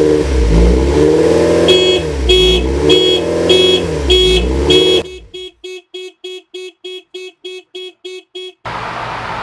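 Honda S2000's four-cylinder engine running on its first start after a rebuild, revved up and down three times, with a sharp electronic beeping repeating alongside. About five seconds in the engine cuts out abruptly while the beeping carries on, faster.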